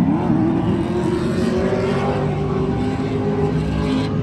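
A car engine revs up at the start and holds a steady high pitch at high revs for about four seconds, then cuts off sharply near the end.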